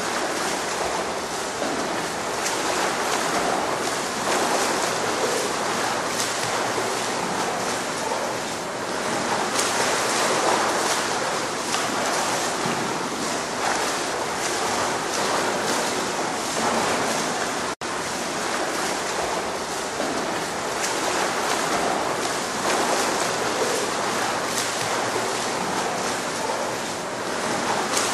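Steady rushing of water, like surf or flowing water, with a very brief break about eighteen seconds in.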